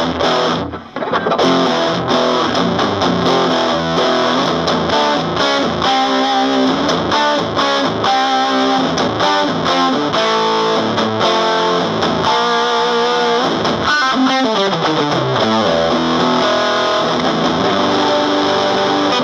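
Electric guitar played through a Round Digital Sound GX-25 25-watt amplifier on its distortion channel with the gain turned all the way up: heavily distorted riffing with a brief break about a second in. Even at full gain the amp adds only a little noise.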